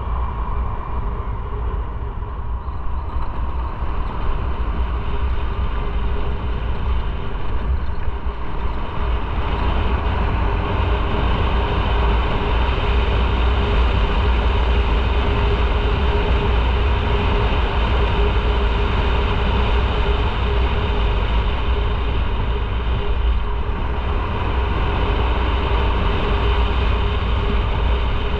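Motorcycle engine running steadily under way, with a strong low rumble of wind and road noise; it grows slightly louder about nine seconds in.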